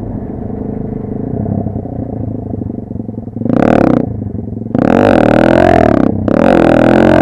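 Motorcycle engine running at idle, then revved: a short throttle blip about three and a half seconds in, then longer, louder revving near the end with a brief drop in between.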